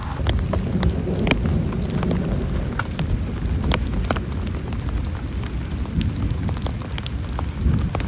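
Heavy rain falling, with many individual drops ticking sharply against a nearby surface over a deep, steady rumble.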